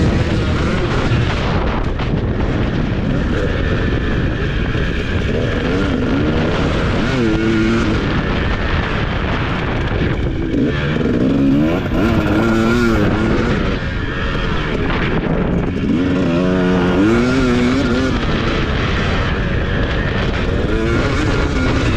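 Husqvarna TC250 motocross bike's engine being ridden hard, its pitch rising and falling again and again as the throttle is opened and closed, over a constant loud rushing noise.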